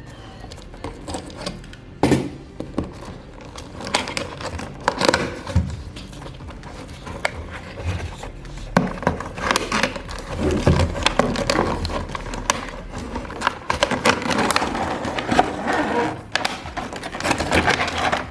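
Hands handling a toy's packaging and plastic parts: irregular clicks, knocks, scrapes and rustles.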